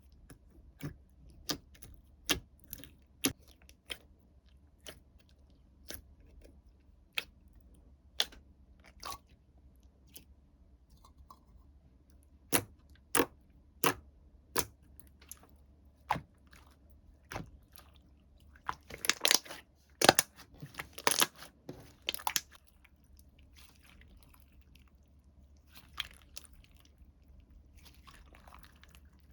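Slime being pressed and poked by hand, giving sharp, irregular clicks and pops, with a denser run of crackling about two-thirds of the way through.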